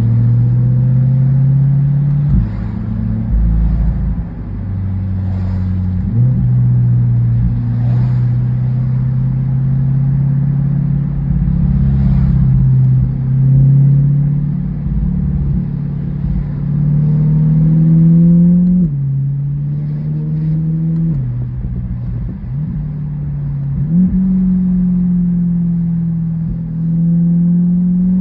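2023 C8 Corvette Z51's 6.2-litre V8 through an AWE Track exhaust while driving. It holds a steady drone at moderate revs, then in the second half makes several pulls that climb in pitch and drop suddenly at each upshift.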